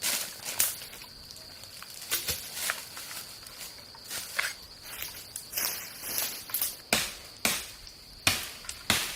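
A series of sharp knocks and rustles, irregular at first and then coming about every half second near the end, over a steady high insect drone.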